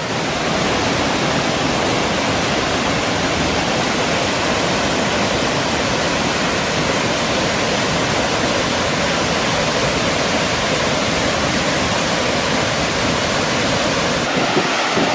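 Steady, loud rushing of the Brändbergsfallet waterfall on the Råne River, white water pouring over the falls. Near the end, wind starts buffeting the microphone.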